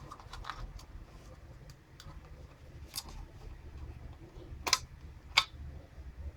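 Scattered light ticks and clicks of small hard parts being handled, with two sharper, louder clicks near the end, over a low steady hum.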